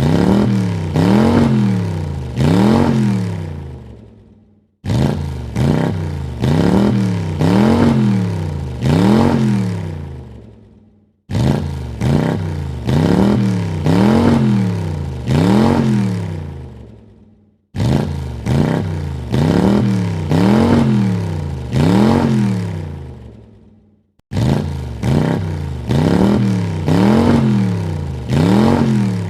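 Car engine revved three times in quick blips, each rising and falling in pitch, then dying away. The same short recording repeats about every six and a half seconds, cutting in abruptly each time.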